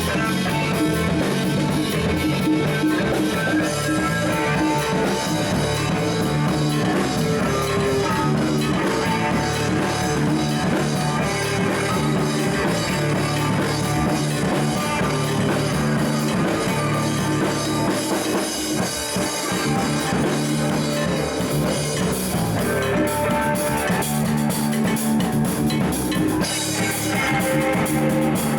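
Live rock band jamming instrumentally, with drum kit and electric guitar playing steadily.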